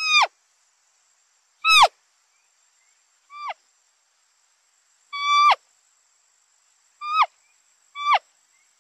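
Deer bleats: six short, high calls about one to two seconds apart, each holding its pitch and then dropping sharply at the end, the third one fainter.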